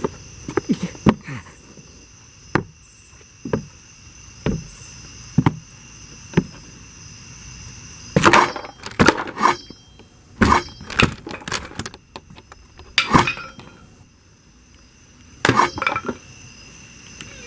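Wooden knocks and cracking, as from hatchet blows on wood. Single sharp strikes come about once a second at first, then heavier strikes in clusters with cracking and splintering. Crickets chirp steadily throughout.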